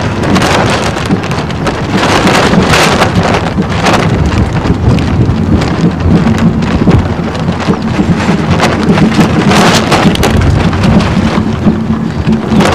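Heavy rain falling, a dense hiss that swells and eases every few seconds.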